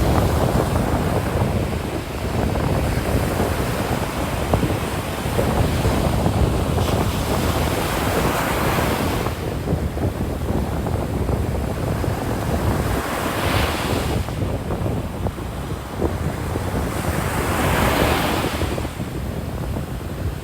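Ocean surf washing onto the beach, with a wash swelling up about every four to five seconds, over a steady low rumble of wind on the microphone.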